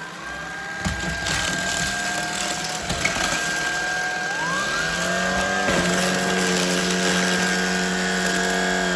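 Shark Vertex cordless stick vacuum running over Fruit Loops, with a steady high whine over a lower motor hum. About halfway through, the motor note rises and then holds steady. It shuts off abruptly at the end.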